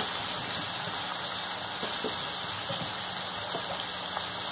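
Chicken and ground green masala sizzling steadily in a steel pot as chunks of turnip are added, with a few faint taps of a wooden spoon and the turnip pieces.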